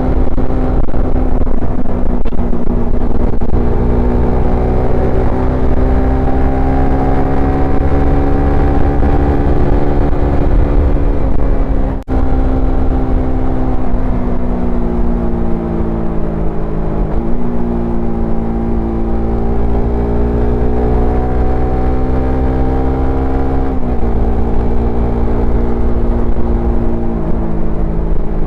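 Suzuki Satria FU FI motorcycle's single-cylinder four-stroke engine and exhaust under way, revs climbing and falling slowly with sudden pitch steps as it changes gear. There is a brief sharp break in the sound about twelve seconds in.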